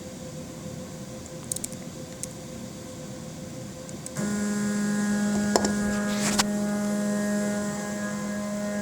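CNC router's axis motor starting about four seconds in with a sudden steady whine as the Z axis jogs up, with a couple of sharp clicks over it; before that only a faint hum and a few light clicks.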